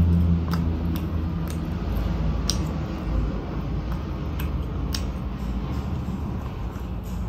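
Close-miked chewing of roast chicken, with a handful of sharp wet clicks scattered through the first five seconds.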